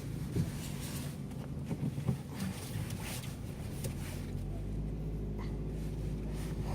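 Car engine and road noise heard from inside the cabin, with a few light knocks in the first half; the engine's low rumble grows about four seconds in as the car pulls away.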